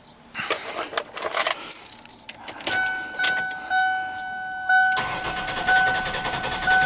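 Keys rattling, then the Ford Explorer's warning chime pulsing about once a second. About five seconds in, the engine is cranked and starts running under the chime.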